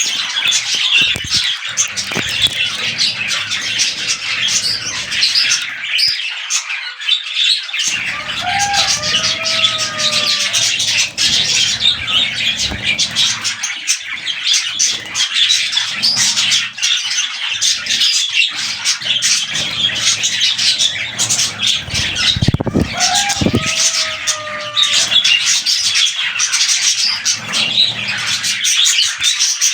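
Budgerigars chattering and warbling without a break, a dense mass of high twittering calls, with two lower whistled calls about 9 and 23 seconds in.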